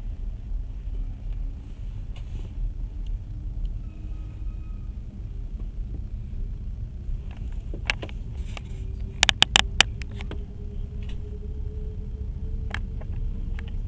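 Steady low rumble of a moving train on the rails, heard from inside a carriage. A quick cluster of sharp metallic clacks comes about nine to ten seconds in, with a few lighter ones before and after. A faint whine slowly rises in pitch through the second half.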